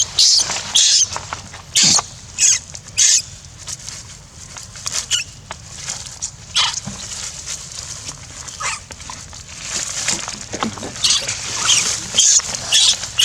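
Barbary macaques giving short, high-pitched squeals, a dozen or more in irregular succession.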